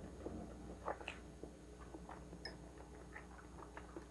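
Close-miked chewing of a mouthful of fresh spring roll (lumpiang sariwa): scattered soft mouth clicks and smacks, a little louder about a second in.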